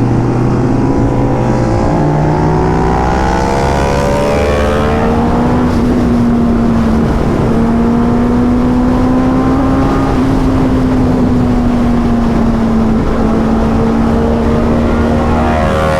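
Motorcycle engine accelerating, its pitch climbing over the first few seconds, then holding a steady tone while cruising, easing a little near the end.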